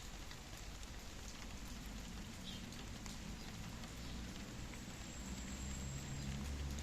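Steady rain falling, with scattered individual drops pattering. A low rumble builds underneath from about two seconds in.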